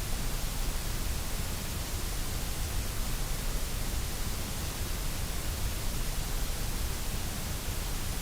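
Generated white noise: a steady, unchanging hiss with a low rumble underneath.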